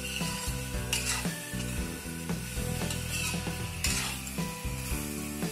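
Duck meat and sliced onions sizzling in hot mustard oil in a metal kadhai, stirred with a steel ladle that scrapes against the pan, with sharper scrapes about a second in and again near four seconds.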